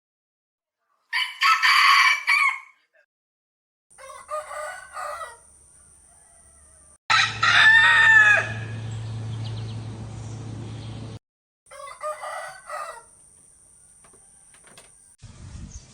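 Rooster crowing, about four separate crows a few seconds apart. Each is cut in and out abruptly with a different background behind it, as clips spliced together; the third crow, about seven seconds in, is the loudest.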